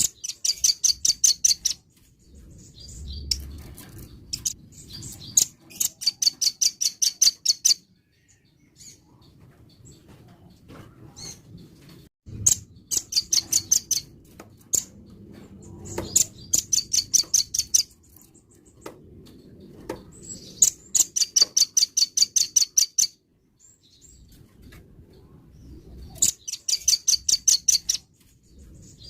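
A nuthatch (rambatan) singing in full voice: rapid trills of high, sharp notes, each burst lasting a second or two and repeated every few seconds, over a faint low background rumble.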